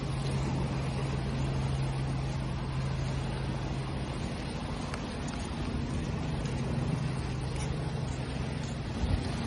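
Steady rush of ocean waves with the low, steady hum of an engine running underneath, its pitch stepping up about halfway through. A brief knock near the end.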